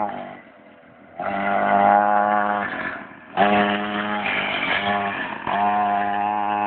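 Mini pit bike's small engine running at a steady high pitch. It drops away briefly just after the start and again about three seconds in, coming back each time.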